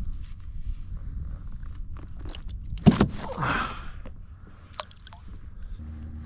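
Knocks and scraping on a kayak as a freshly caught flounder is handled, with one loud sharp knock about three seconds in followed by about a second of scraping and splashing, over a low rumble of wind and water.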